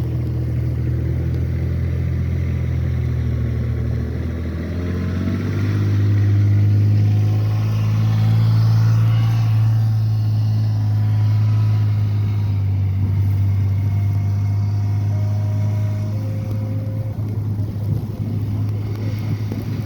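Engine of a heavy snow-removal vehicle running close by. It revs up, rising in pitch about five seconds in, then runs steadily.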